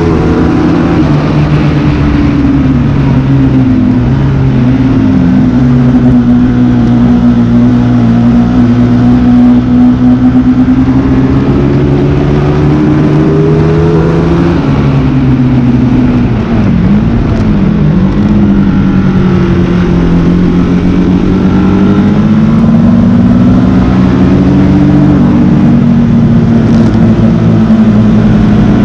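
Motorcycle engine running hard on a circuit, its pitch climbing under acceleration and dropping sharply twice, about four and sixteen seconds in, as it is shifted down for corners.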